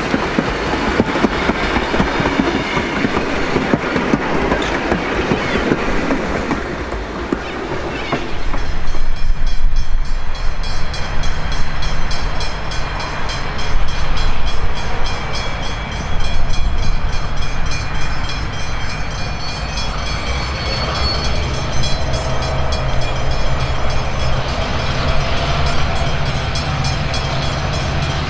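Vintage wooden passenger carriages rolling past, their wheels clicking over the rail joints. After about eight seconds a louder, steady low engine hum takes over: a Victorian Railways T-class diesel-electric locomotive running at the head of the train.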